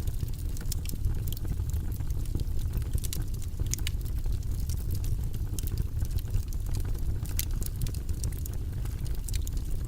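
Wood fire in a fireplace burning, with a steady low rumble and irregular sharp crackles and pops.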